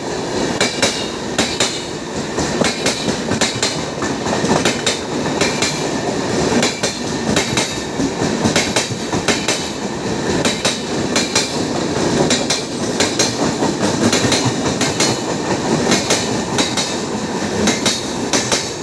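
Mumbai Mail's coaches rolling slowly past, the wheels clicking steadily and irregularly over the rail joints.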